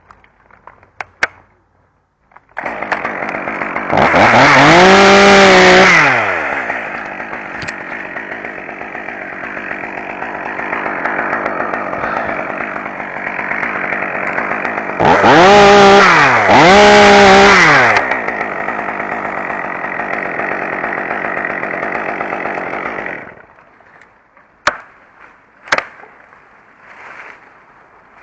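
Chainsaw engine starting up, revved hard once a second or so later, then running steadily before two more quick revs, and cut off abruptly. A few sharp clicks follow.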